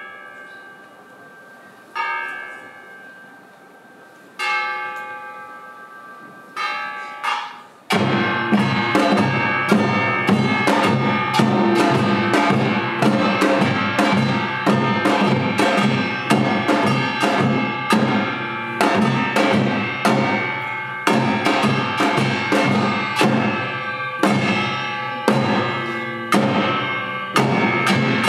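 Yeongnam samulnori opening: a few slow single strokes on the metal gongs, each left to ring, then about eight seconds in the full ensemble of janggu and buk drums with kkwaenggwari and jing gongs comes in with a fast, dense rhythm.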